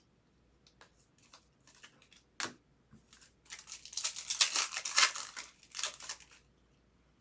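Foil trading-card pack wrapper being torn open and crinkled: a few light crackles, a sharp rip about two and a half seconds in, then about three seconds of dense, loud crinkling.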